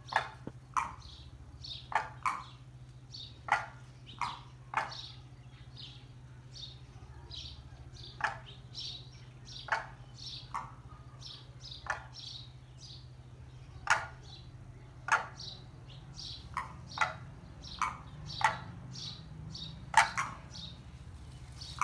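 Short, sharp bird chirps repeated at an uneven pace, roughly one a second, with softer high chirps in between and a faint steady low hum underneath.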